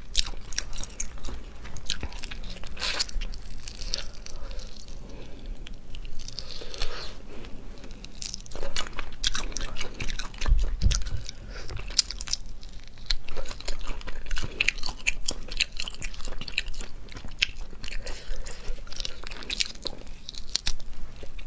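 Close-up eating sounds: crunching and chewing on pickled chili peppers from a jar, with many irregular short wet clicks and crackles.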